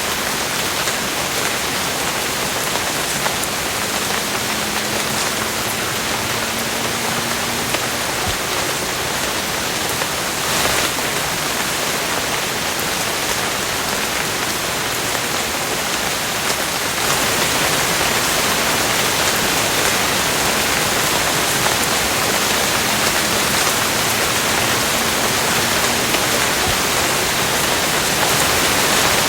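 Steady rain falling, an even hiss of drops that grows a little louder about halfway through.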